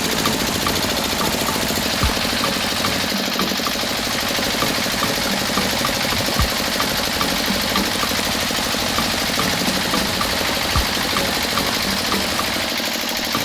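A small motor running steadily, with faint regular ticks about twice a second and three short low thumps spread through it.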